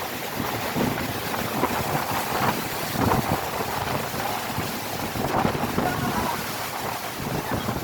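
Hurricane wind gusting hard and buffeting the microphone, a steady rushing roar that rises and falls with the gusts.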